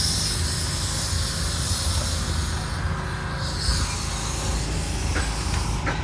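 Steam hissing from a small live-steam locomotive over a steady low rumble, the hiss easing off about halfway through.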